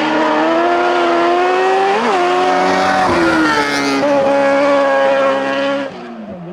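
Speedcar Xtreme race car's engine running at high revs under hard acceleration, its pitch jumping a few times with gear changes. The engine note drops away near the end.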